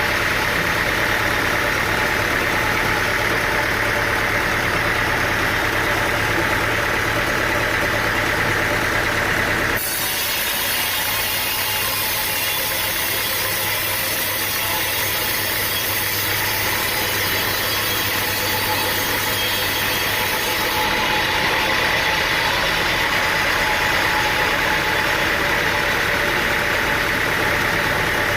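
An engine running steadily under load. The sound changes abruptly about ten seconds in, the low hum thinning and a brighter hiss coming in, and shifts back again about twenty seconds in.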